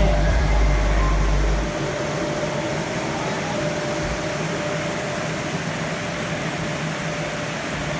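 Water pump running with a steady hum and a rushing hiss. A low rumble in the first two seconds then drops away.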